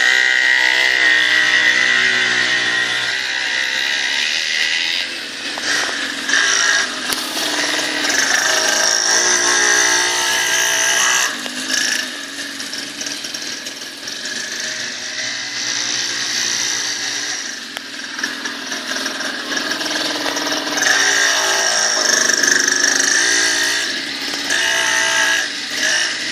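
Small engine of a mini dirt bike running with a high buzz, revving up and easing off again several times.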